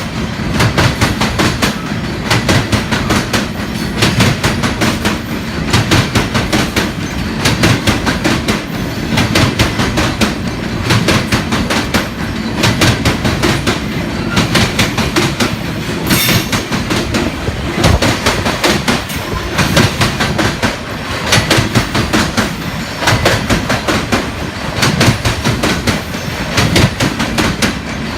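Freight cars of a Union Pacific gravel train rolling past, their wheels clicking over the rail joints in a steady, rapid clickety-clack.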